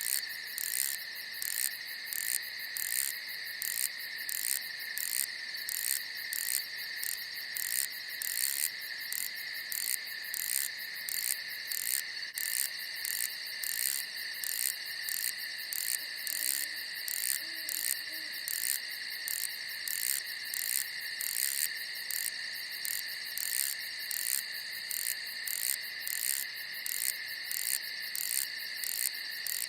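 Crickets singing at night: a steady high trill with a second, pulsing chirp repeating about twice a second. A faint low call sounds briefly about halfway through.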